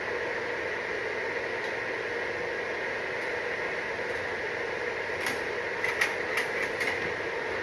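Steady mechanical hum, with a run of sharp clicks and knocks about five to seven seconds in.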